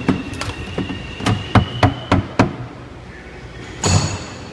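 A quick series of sharp knocks on a hard surface, about eight in the first two and a half seconds, then one more near the end, with a faint steady high whine under the first half.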